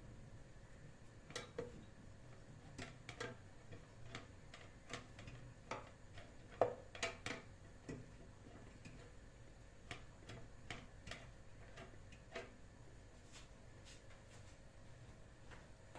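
Scattered light clicks and taps from handling things in a kitchen, irregular, with the loudest a little past the middle.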